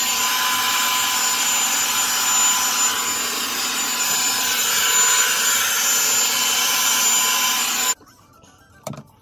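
Revlon One-Step Volumizer hair dryer brush running steadily, a rush of air with a thin high whine, then switched off abruptly about eight seconds in. A single click follows a second later.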